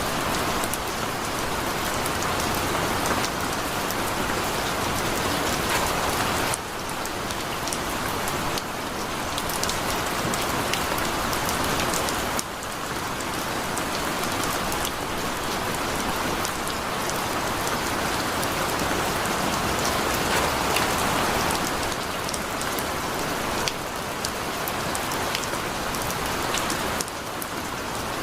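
Heavy rain falling steadily, with many sharp individual drop hits; the level drops abruptly a few times.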